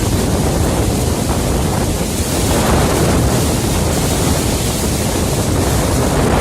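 Wind buffeting the microphone with a low rumble, over a steady rushing noise that does not let up.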